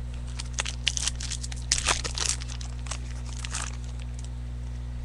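Trading-card pack wrappers and cards being handled: a run of short crinkling, tearing rustles for about three seconds, over a steady low electrical hum.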